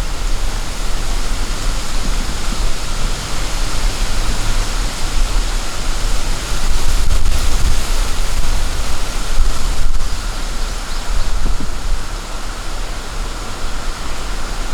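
Wind buffeting the microphone: a steady rushing noise with a heavy low rumble, swelling louder from about six to ten seconds in.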